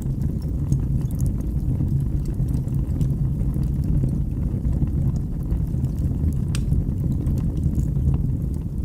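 Wood fire burning in a fireplace: a steady low rumble of flames with scattered faint crackles, and one sharper pop about six and a half seconds in.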